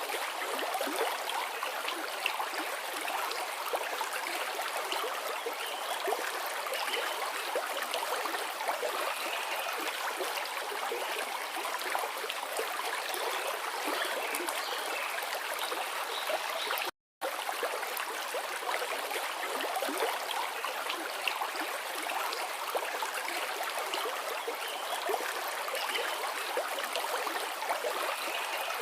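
Forest river flowing: a steady rush and babble of running water, light on low rumble. About two-thirds of the way through, the sound drops out completely for a split second.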